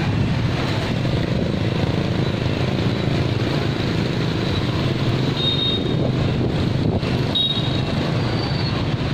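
A train running past on street-level tracks, a loud steady rumble of wheels on rails, with short high-pitched wheel squeals a few times in the second half.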